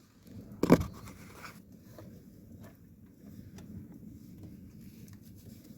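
Low wind rumble on the microphone, with a brief scraping rustle less than a second in and a few faint clicks after it.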